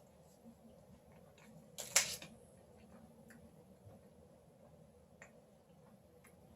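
One short, crisp crackle about two seconds in, among a few faint clicks: someone eating or handling a Mr. Big chocolate bar.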